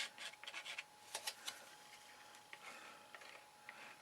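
Faint small clicks and scrapes of a glue bottle and card being handled, busiest in the first second and a half, then a few scattered ticks.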